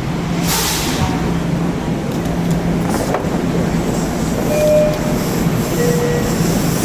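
Passenger train arriving at an underground station: a steady low hum over rumbling noise, with a short hiss about half a second in and two brief tones near the end.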